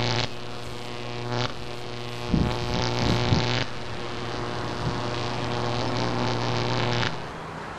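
Steady electronic buzzing hum of a sci-fi scanner sound effect, running through the scan and cutting off suddenly about seven seconds in, with a few soft low thumps between two and three and a half seconds in.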